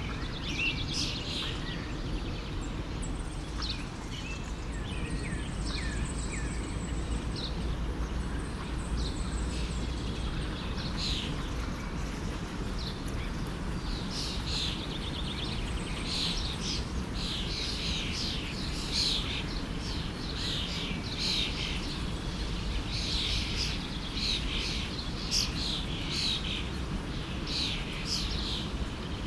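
Many birds chirping with quick, short notes, busier in the second half, over a steady low rush of a flowing forest stream.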